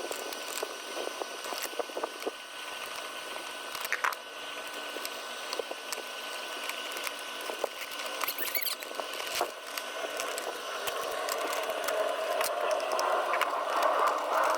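Scattered small clicks and scratchy handling noises over a steady hiss, with a louder rustling noise building over the last few seconds.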